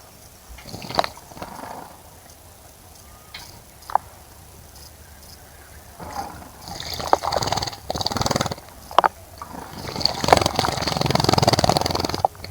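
Birds bathing in a garden bird bath: a couple of sharp taps at first, then from about halfway through, repeated bursts of splashing water that go on until just before the end.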